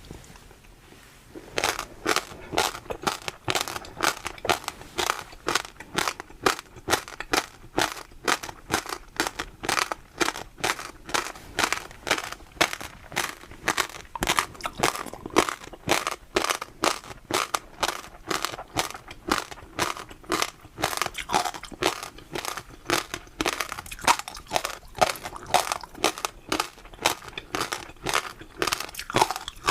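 Close-miked chewing of crunchy food, with quick sharp crunches several times a second. They begin after a short pause at the start and carry on steadily.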